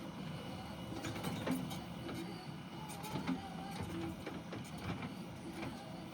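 JCB 3DX backhoe loader's diesel engine running steadily under work, with a scatter of sharp knocks and clatter about a second in and again near the end.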